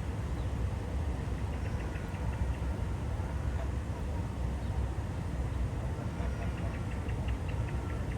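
Pond-side outdoor ambience: a steady low rumble, with two short runs of quick, faint high chirps, one about two to three seconds in and another near the end.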